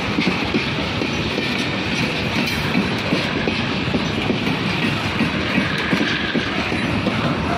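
Coal train's hopper wagons rolling past close by, the wheels clattering on the track in a steady rumble of many quick clicks.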